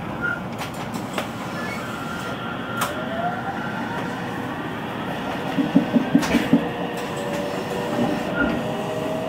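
313 series 3000-subseries electric train pulling away, its motor whine rising in pitch as it gathers speed. About five and a half seconds in comes a quick run of about six knocks, the "kon kon kon" abnormal noise this train makes on departure.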